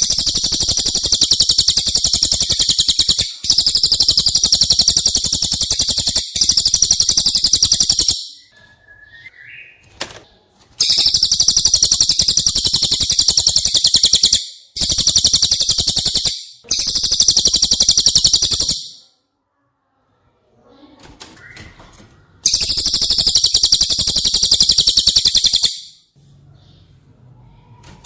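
Cililin bird song: a series of long, very fast, high-pitched trills, seven phrases of two to four seconds each separated by short breaks.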